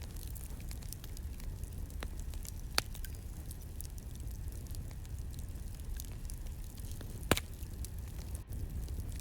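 Campfire crackling: a steady low rumble of burning wood with scattered small crackles and two louder pops, about three seconds in and about seven seconds in.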